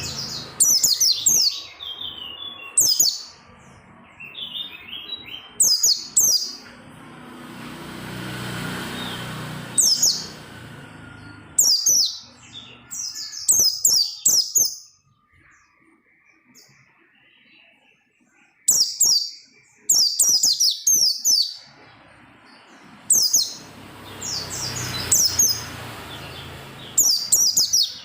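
Pleci (white-eye) singing in short bursts of rapid, high-pitched chirps, repeated every second or two, with a pause about halfway through.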